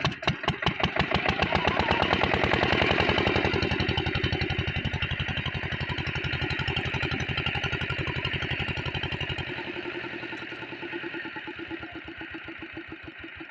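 Single-cylinder diesel water-pump engine chugging with an even beat. It picks up over the first seconds and is loudest about three seconds in, then gradually fades and slows toward the end.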